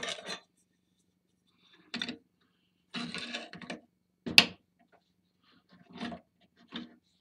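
Aluminium bracket parts handled and set down on a workbench: several brief scrapes and knocks, with one sharp metallic clink a little past four seconds in.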